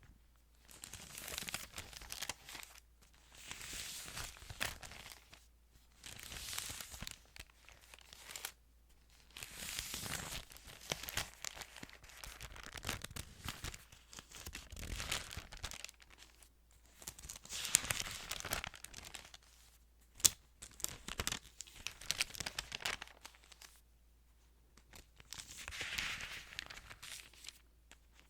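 Thin Bible pages being turned and handled close to the microphone, crinkling in about ten separate bursts a second or two long with short pauses between, plus a couple of sharp paper snaps.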